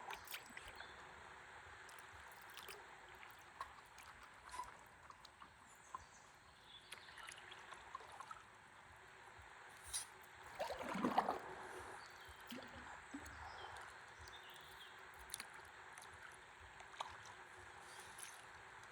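Gentle river water trickling and lapping, with scattered small drips. About ten to eleven seconds in, a louder gurgling splash.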